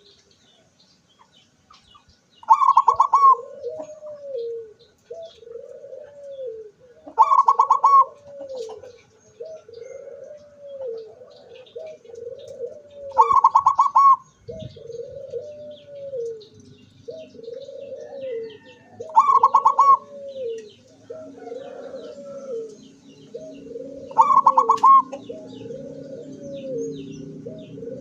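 Zebra dove (perkutut) singing its cooing song: five times, a loud high opening note followed by a run of lower, rounded coos repeating about once a second. Faint chirps from small birds sound throughout, and a low steady hum comes in about halfway.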